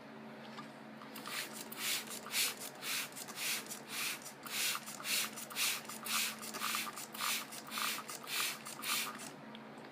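Ryko Soft Gloss automatic car wash making a rhythmic swishing, about three strokes a second, over a low steady hum. The swishing starts about a second in and stops near the end.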